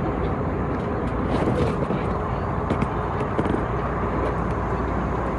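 Steady cabin noise of an Airbus A321neo airliner in flight: an even, deep rush of engine and airflow noise, with a few faint clicks.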